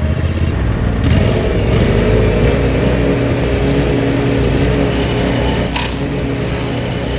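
Small petrol engine running steadily, a little louder and fuller from about a second in.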